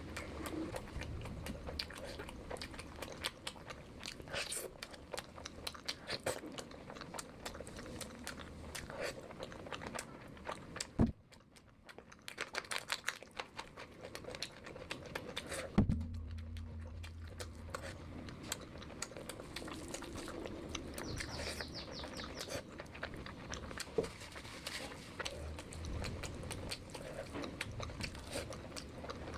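Close-miked chewing and biting of curry and biryani: a dense run of quick wet mouth clicks and smacks, broken by a couple of sharper knocks partway through, one followed by a brief quieter spell.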